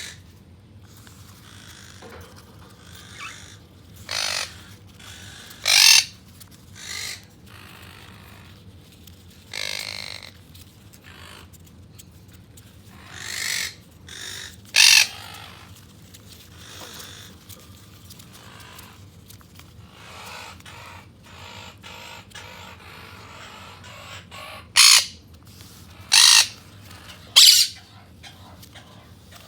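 Quaker parrots (monk parakeets) giving harsh, short squawks, about nine loud calls at irregular gaps, with quieter stretches between them.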